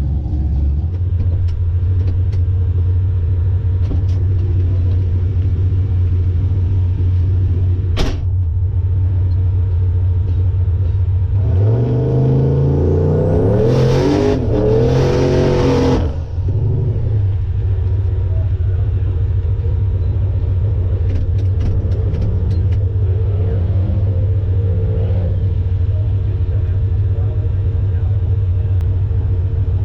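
Car engine idling steadily close by. A little over ten seconds in, an engine revs up for about four seconds, its pitch climbing, then drops back to idle, with a single sharp click a few seconds before.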